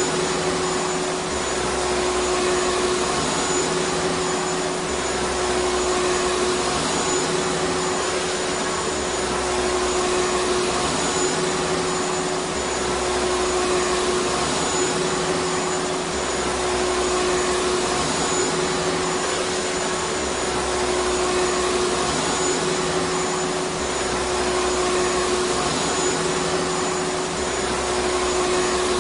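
Vacuum cleaner running steadily: a continuous rushing hiss with a steady hum, swelling gently every few seconds.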